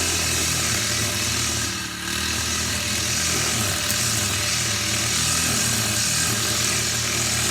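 A small engine running steadily at high speed, with no change in pitch.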